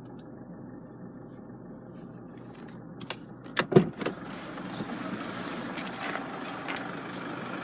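Land Rover Freelander's 2.2 TD4 diesel engine idling steadily, muffled for the first three seconds, then clearer, with a few sharp knocks about three and a half seconds in.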